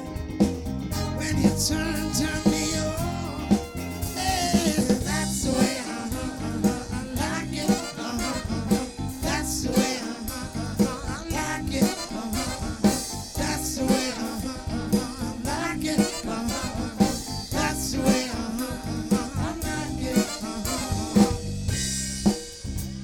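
Live band playing an upbeat song with drum kit and singing.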